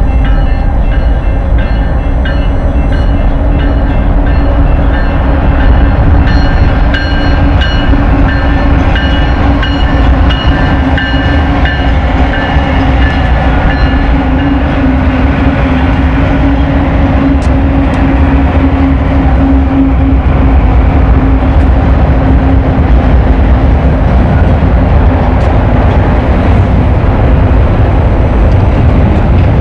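BNSF diesel locomotives followed by a double-stack intermodal freight train passing a grade crossing: a loud, steady rumble of engines and wheels on the rails. A crossing warning bell rings over it through roughly the first half, then fades under the train noise.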